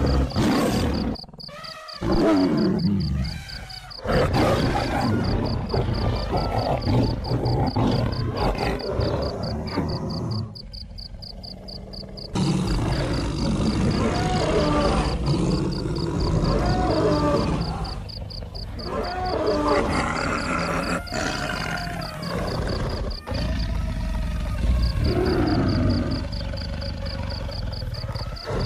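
Wild animals calling: a series of deep roars and grunting growls that rise and fall in pitch, with abrupt changes several times as the sound cuts between scenes.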